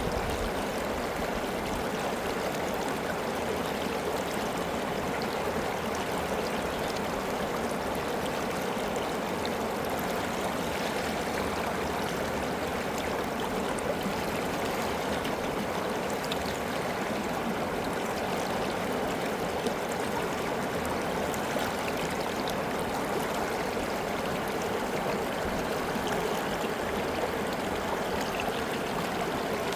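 River water flowing steadily over rocks, an even rushing with small splashes and trickles.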